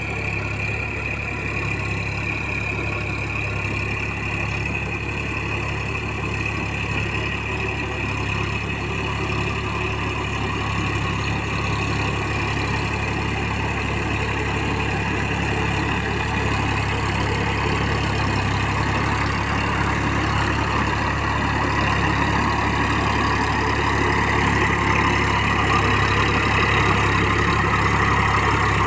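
Massey Ferguson 9000 tractor's diesel engine running steadily while puddling mud, growing a little louder near the end.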